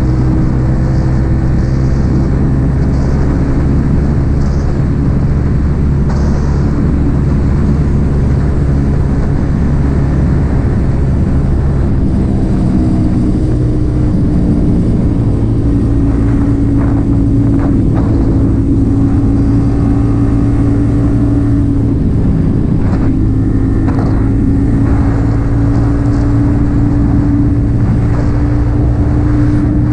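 Yamaha XSR 155's single-cylinder engine running through an aftermarket M4 exhaust while the bike is ridden along the road. The engine note holds fairly steady, with a slight drop in pitch about halfway through.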